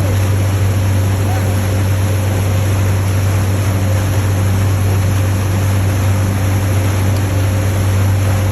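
A boat's engine running steadily at the stern: a loud, even low drone with a faint steady tone above it and a constant hiss over everything.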